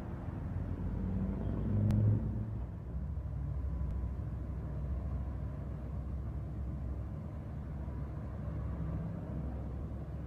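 Scania V8 truck engine running with a deep low rumble that swells briefly about two seconds in, then settles to a steady drone.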